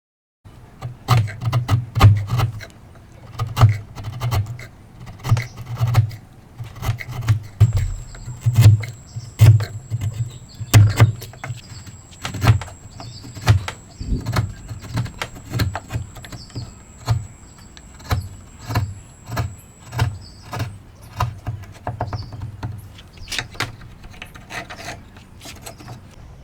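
Hand tools working wood: a steady run of sharp knocks, about one to two a second, with rubbing and scraping of wood between them. A faint high steady tone runs through the middle.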